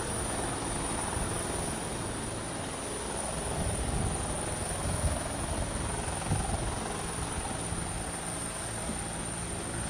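Helicopter running: a steady drone of rotor and engine noise with a low hum.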